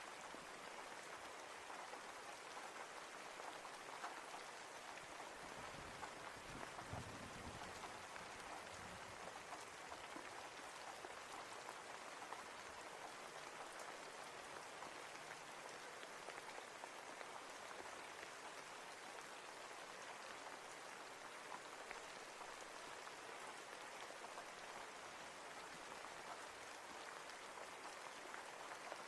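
Steady rainfall, a continuous hiss with many individual drops ticking on a surface.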